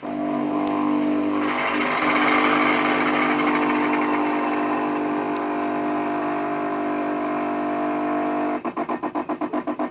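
De'Longhi ESAM1000SJ bean-to-cup espresso machine running, a steady buzzing hum with a hiss joining after about a second and a half, then pulsing about eight times a second near the end.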